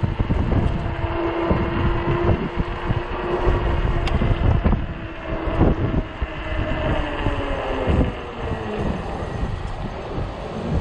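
Gusty wind buffeting the microphone of a moving e-bike in strong wind, with a steady whine through the first half and a tone that slides down in pitch later on.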